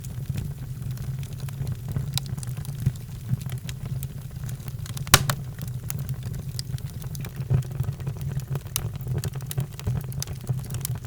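Wood fire burning in a fireplace, a steady low rumble with scattered crackles and pops, one sharp pop about five seconds in.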